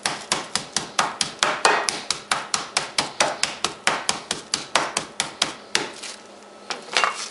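Meat mallet's pointed face pounding a chicken breast wrapped in plastic on a cutting board: a fast, even run of blows about four a second, stopping about six seconds in, then two more strikes near the end.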